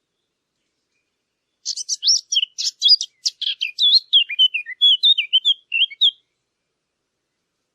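A songbird singing one rapid, varied song phrase of high chirps and quick up-and-down sweeps, starting about two seconds in and lasting about four and a half seconds.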